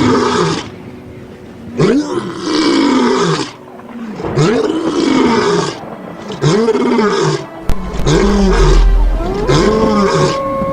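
A large animal roaring repeatedly: about five loud calls roughly two seconds apart, each rising and then falling in pitch. A deep rumble sets in about eight seconds in, and steady held tones enter near the end.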